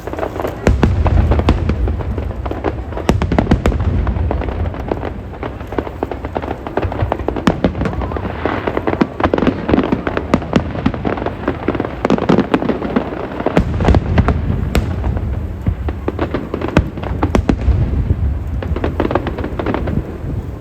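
Aerial fireworks display: dense crackling and sharp bangs throughout, with deep rolling booms from shells bursting, heaviest in the first third and again in the last third.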